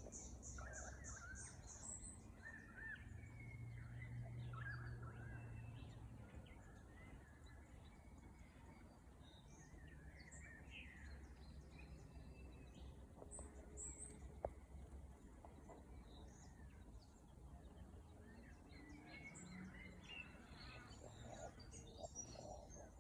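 Faint, scattered chirps and short whistled calls of small birds in bushland, over a low steady rumble.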